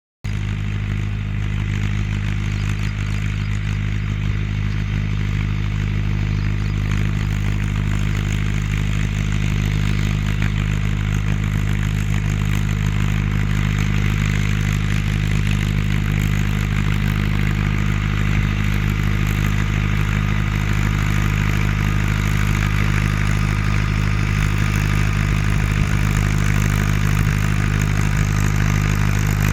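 Mahindra Arjun 605 tractor's diesel engine running steadily at a constant speed under rotavator load, with some clatter over it.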